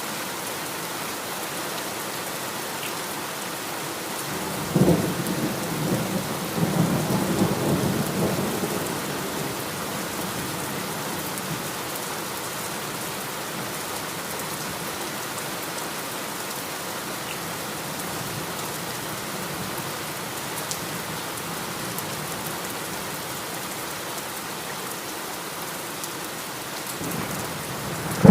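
Heavy rain falling steadily, with a sudden thunderclap about five seconds in that rumbles on for a few seconds. Another loud thunderclap breaks right at the end.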